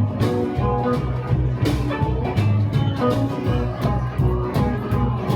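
A band playing a song: guitar over a bass line and a steady drum beat.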